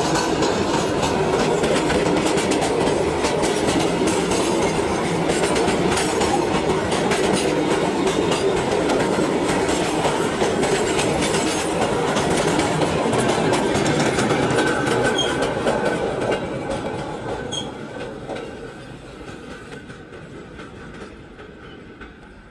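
Freight train's covered wagons rolling past close by: a steady rumble with dense clatter of steel wheels over the rail joints. About 16 s in the tail of the train passes and the sound fades away as it recedes.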